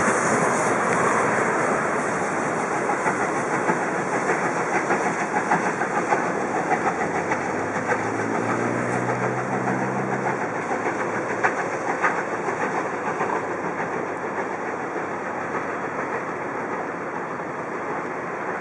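Steam-hauled train rolling over the track and points: a steady rumble with many wheel clicks, slowly fading as the train moves away.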